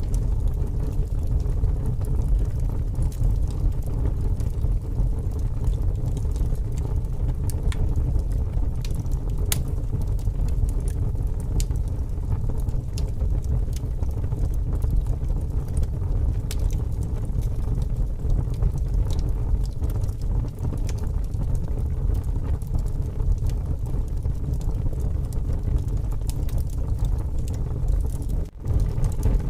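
Wood fire crackling, with scattered sharp pops over a steady low rumble of wind buffeting the fire and microphone. The sound dips out briefly near the end.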